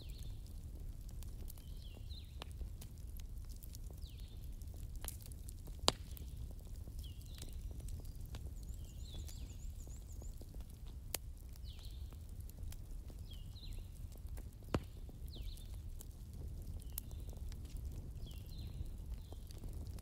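Short high chirps, falling in pitch, repeating about once a second like a small bird calling, over a low steady rumble, with a few sharp clicks.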